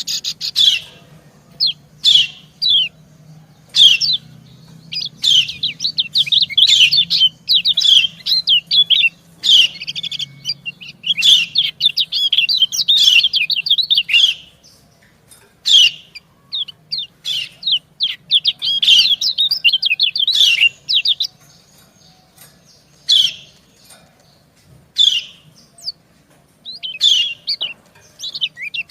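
Kecial kuning white-eyes (Zosterops) calling: the female's high 'ciak' chirps answering a male's song. The calls come as single sharp notes and fast chattering runs in bursts, with short pauses between.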